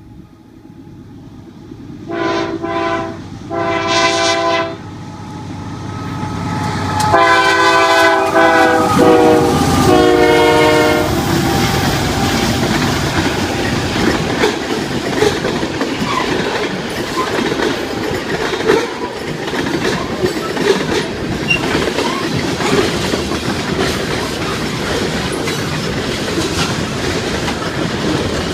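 Ferromex diesel locomotive sounds its chord air horn: two short blasts, then two longer ones. Then the train rolls by with a steady loud rumble and repeated clicks of wheels over rail joints.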